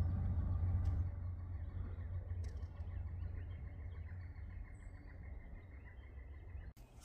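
Freight train rumbling past and fading steadily as it moves away, then cutting off suddenly near the end.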